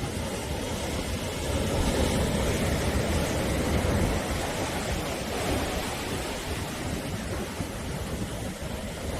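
Sea waves breaking and washing on the shore, a continuous surf rush with a low rumble that swells a little in the first few seconds and then eases, with wind buffeting the microphone.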